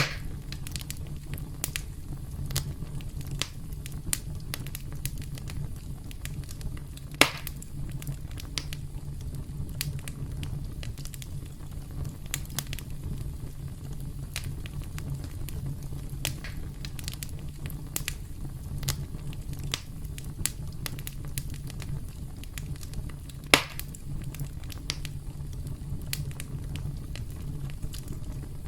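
Wood fire crackling: a steady low rumble of burning with frequent sharp snaps and pops, two of them much louder, about a quarter of the way in and again later on.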